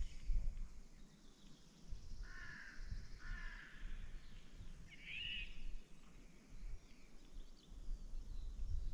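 A bird calling outdoors: two harsh, caw-like calls a couple of seconds in, then a shorter, higher call about five seconds in, over a low rumble.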